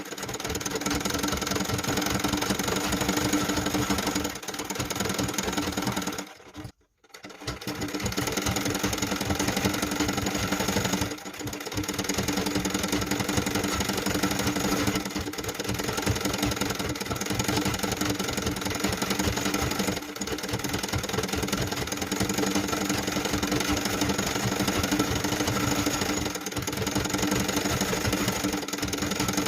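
Sewing machine stitching machine embroidery at a fast, steady pace. It stops for a moment about six seconds in, dips briefly a few times, then runs on.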